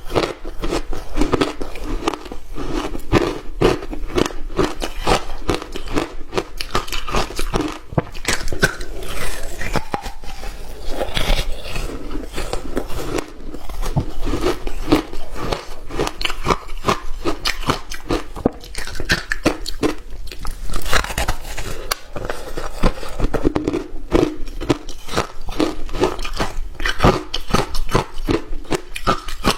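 Hard ice being bitten and chewed close to the microphone: a continuous run of quick, sharp crunches.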